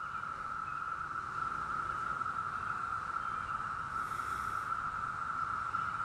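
Chorus of periodical cicadas in the background: a steady, even drone held on one pitch.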